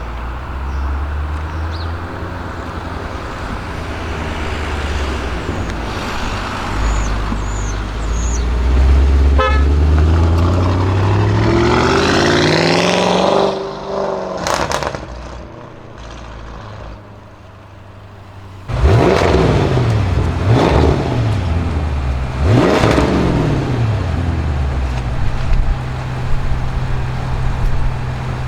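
Audi RS6 Avant C7's twin-turbo 4.0 V8 breathing through a Milltek exhaust: the engine note climbs steadily for about thirteen seconds, cuts off with a few sharp exhaust cracks, then after a lull is blipped to high revs three times in quick succession and settles back to a steady idle.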